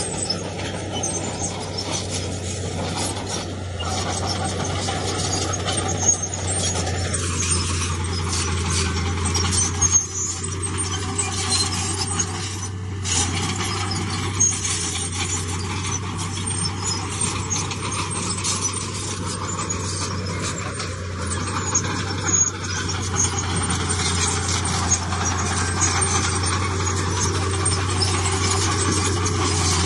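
Heavy diesel earthmoving machinery running steadily: a constant low engine drone with frequent small metallic clicks and clanks over it.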